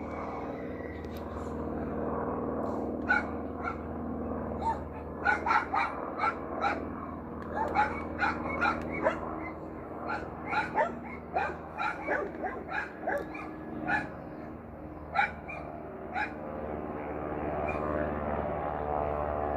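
A dog barking repeatedly in quick runs over the steady drone of a distant aircraft engine, the Grumman Ag Cat's 450 hp radial. The engine drone grows louder near the end as the barking stops.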